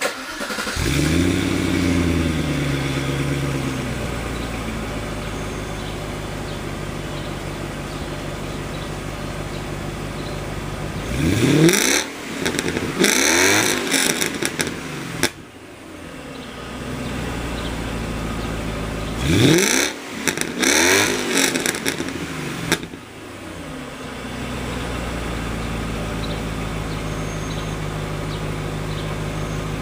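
Audi A8's 4.2-litre 32-valve V8 starting up through a dual exhaust with the catalytic converters removed, an X-pipe, resonator and muffler: it catches, flares and settles to a steady idle. It is revved twice, each time in a few quick blips, about 11 and 19 seconds in, and drops back to idle after each.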